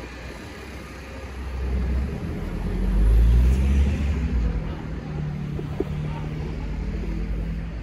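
Street traffic: a motor vehicle's engine rumble swells to its loudest about three seconds in, then settles into a steady low engine hum.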